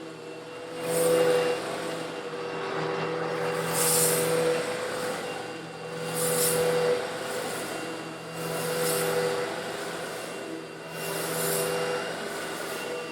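An old Eureka vacuum cleaner running steadily and sucking up small coarse stone granules. The motor hum holds throughout, and a hissing rattle of grit rushing through the suction swells about every two and a half seconds, as the nozzle passes over the granules.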